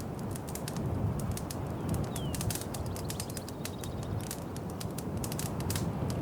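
Wood fire crackling in a fireplace: quick irregular pops and snaps over a steady low rumble of the flames.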